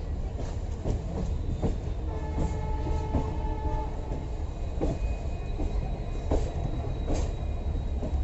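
Passenger train running along the track: a steady low rumble, with the wheels knocking over rail joints about once a second. A steady tone at several pitches sounds for a couple of seconds in the middle.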